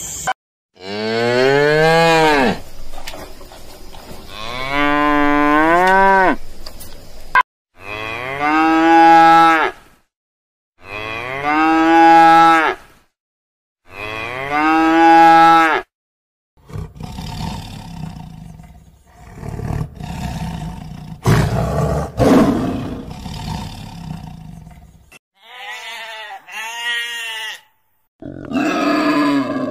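Cattle mooing: five long moos one after another, each a held pitched call. These are followed by several seconds of rougher, noisy grunting and a couple of short calls near the end.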